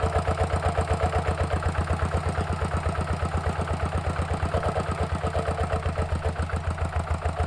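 Two-wheel walking tractor's single-cylinder Kubota ZT155 diesel engine running steadily with an even, rapid beat.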